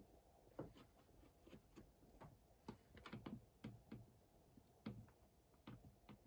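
Faint, irregular clicks and taps, a few a second, over a low hum from a Sharp ES-FB7145W washing machine running.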